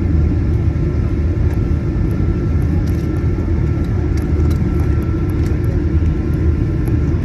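Steady low rumble of a Boeing 737-900ER heard from inside the cabin, its CFM56-7B engines running, with a faint steady whine above it.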